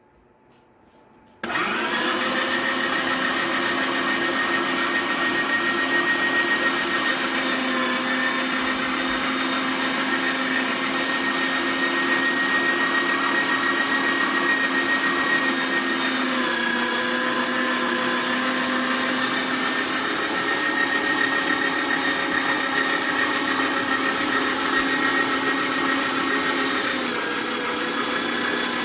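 Kenwood electric meat grinder's motor switched on about a second and a half in, then running with a steady whine while grinding meat. Its pitch drops slightly about halfway through and again near the end.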